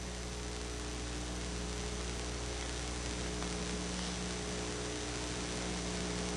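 Steady electrical mains hum with a constant hiss underneath; no other sound.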